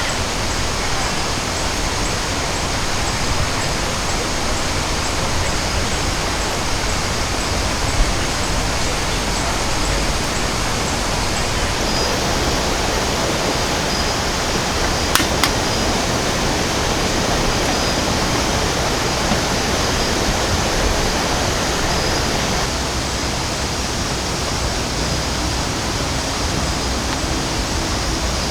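Steady, loud rush of water with no break, with a couple of brief clicks about fifteen seconds in.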